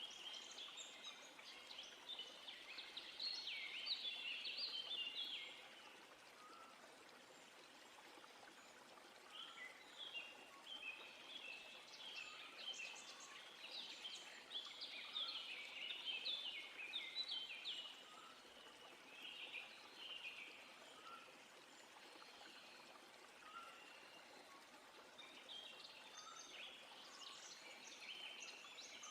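A songbird singing in long, rapid twittering phrases, with pauses of a few seconds between them. Short single low notes recur every couple of seconds, over a faint steady hiss of outdoor ambience.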